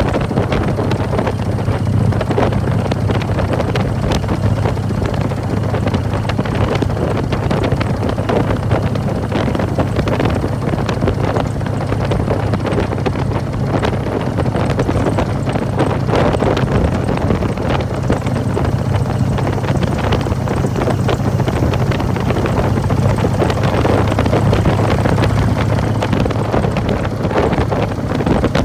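1999 Harley-Davidson Fat Boy's Evolution V-twin running at a steady cruise through Python mufflers, with wind rushing over the microphone.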